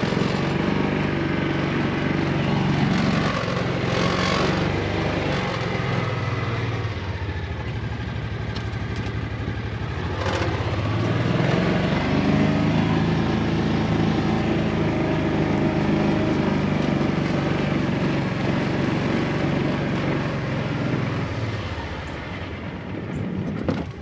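Side-by-side UTV engine running as it is driven, its speed easing off partway through, picking up again and dropping back near the end.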